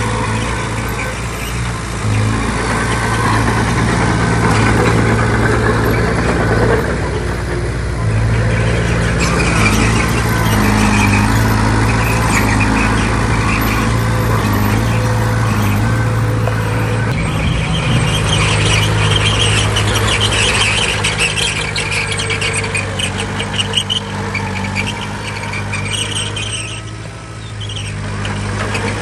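Heavy diesel earthmoving machine running steadily under load. High metallic squealing rides over the engine through the second half.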